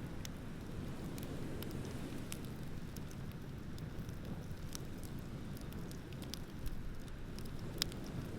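Wood bonfire crackling, with scattered sharp pops and one louder pop near the end, over a steady low rumble of surf.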